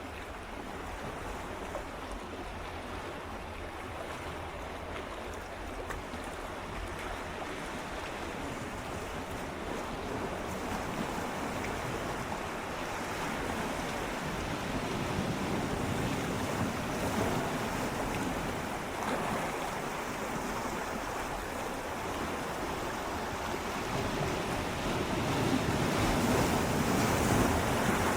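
Gentle sea waves swirling and lapping against shoreline rocks as a steady wash of water noise, swelling gradually louder through the second half as a wave surges in.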